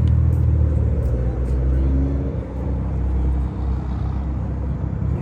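Car engine running at idle: a steady low rumble, with faint voices in the background.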